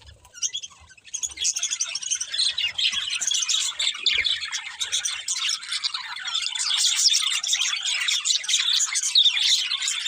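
Budgerigars chirping and chattering, a dense run of quick overlapping chirps and squawks that starts sparse and fills in after about a second.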